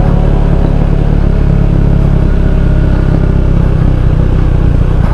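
Motorcycle engine running steadily while riding down a steep road, a dense low rumble with no break.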